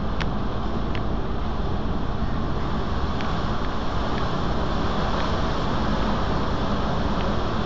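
Strong wind blowing against the microphone: a loud, steady rushing rumble that does not let up, with a few faint, brief high squeaks.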